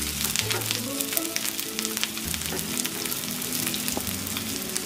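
Mutton seekh kababs sizzling in a little oil on a tawa, a dense run of small crackles as they shallow-fry. Background music plays underneath.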